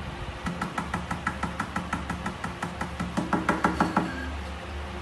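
A rapid series of sharp knocks or taps, about seven a second, that stops about four seconds in.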